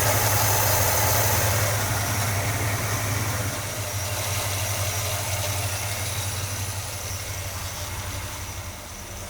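Carbureted car engine idling steadily on a cold start with the choke set, just after a rev; the level slowly fades.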